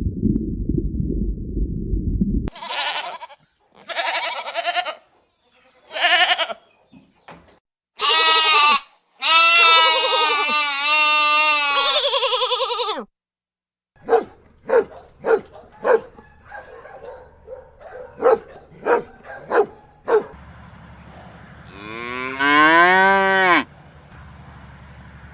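A series of separate farm-animal calls: a low rumbling noise at first, then several short high calls, long wavering bleat-like cries, a quick run of short sharp calls, and near the end one rising call.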